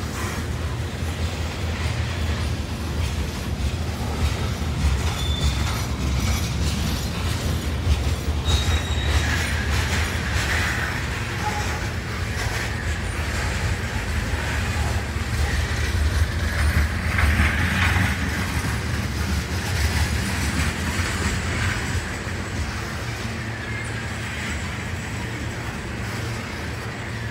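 Coal hopper cars of a long freight train rolling past: a steady low rumble of wheels on rail with clicking, and a higher wheel screech that swells and fades several times.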